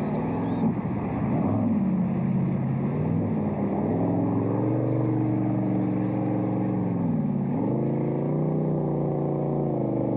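Supercharged racing drag boat engine running loud and steady, its pitch dropping and coming back up a few times as the throttle changes.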